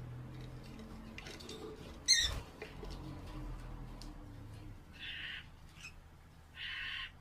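Lovebirds calling: one sharp, loud, high shriek about two seconds in, then two short raspy calls near the end.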